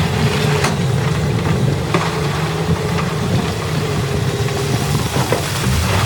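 Heavy construction machine's diesel engine running steadily under a low throb, with a few short sharp knocks.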